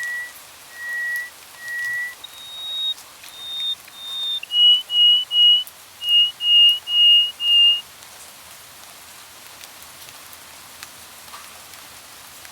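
A forest bird whistling a series of clear, pure notes: about four slow level notes, then three higher ones, then a quicker run of about seven, stopping about eight seconds in. A steady hiss with faint ticks runs behind it.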